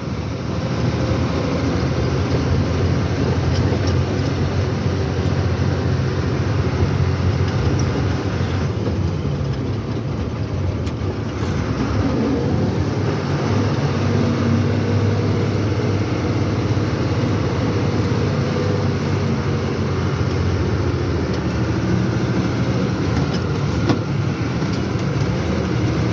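Lorry's diesel engine running steadily with tyre and road noise, heard from inside the cab while driving.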